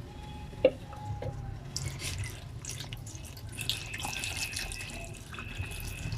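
Liquid sounds from the cooking pot: coconut-milk curry with young jackfruit simmering, with a few faint clicks and a sharp click under a second in.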